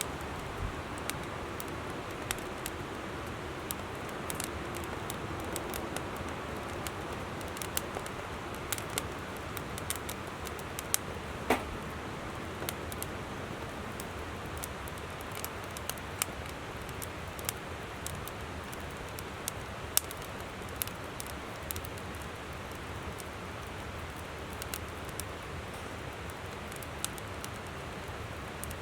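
Wood campfire crackling with irregular sharp pops, a few louder ones in the middle, over the steady rush of a flowing river.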